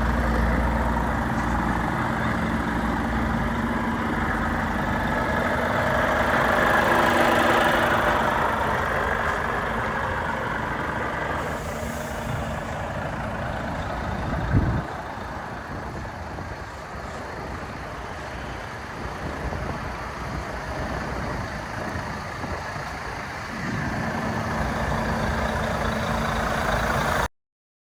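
Volvo FH 500 truck's 13-litre six-cylinder diesel engine idling steadily, swelling a little about a quarter of the way in. A single sharp thump comes about halfway through.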